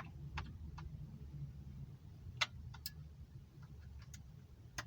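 Scattered light clicks and taps from a tiny model engine and its small parts being handled, about seven in all, the loudest about two and a half seconds in, over a low steady hum.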